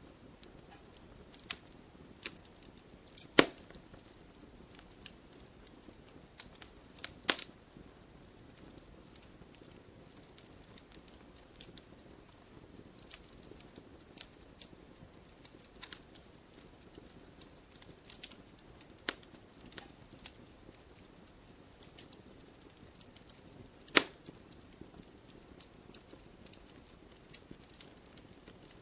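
Campfire crackling: scattered small snaps and ticks over a faint hiss, with three louder sharp pops spread through it.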